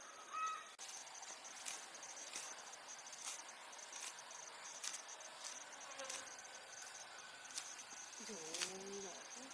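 Crickets chirping in a steady high trill, with scattered short sharp clicks or snaps every second or so. Near the end there is a brief call that rises and falls in pitch.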